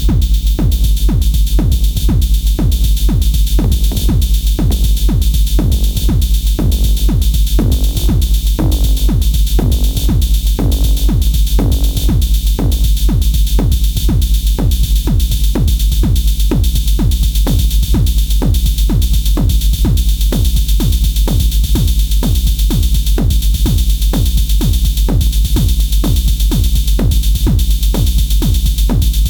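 Elektron Syntakt drum machine playing a steady electronic drum pattern of fast, even hits over a heavy bass, with a brief pitched synth part in the middle.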